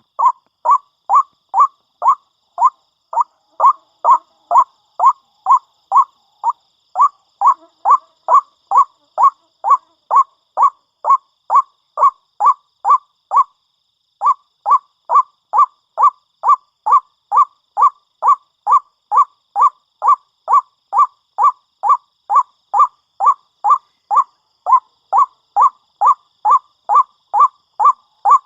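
White-breasted waterhen calling in a fast, even series of short calls, about two to three a second, with a brief pause about halfway through. It is a bird-lure recording.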